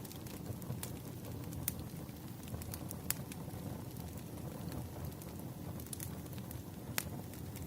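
Wood fire burning steadily with a low rumble and irregular sharp crackles and pops from the burning logs.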